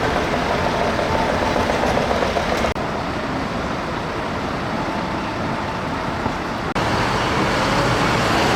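Road traffic noise on a city street: motor vehicles running and passing as a steady rush, which changes abruptly twice.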